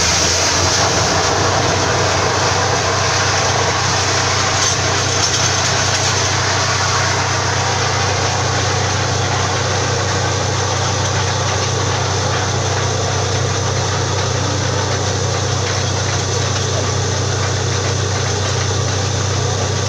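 Borewell drilling rig's engine running steadily at a constant speed: a deep, even hum with a dense hiss above it.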